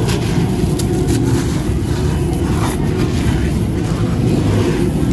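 Dry, gritty light grey concrete crumbling and crunching: a dense, continuous crackle, heavy and low, with scattered sharper gritty clicks on top.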